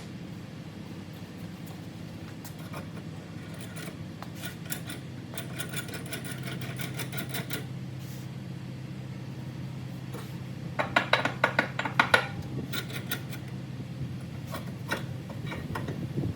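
Metal clinking and rattling from hand tools working on metal, in two spells of quick clicks, the second louder, over a steady low hum.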